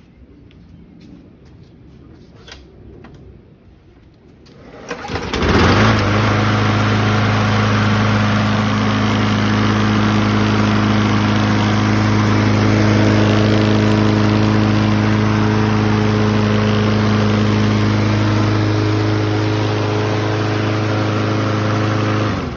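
Briggs & Stratton 190cc single-cylinder engine on a walk-behind lawn mower starting about five seconds in, then running steadily at a constant speed, the freshly rebuilt carburettor holding it even. It shuts off abruptly just before the end.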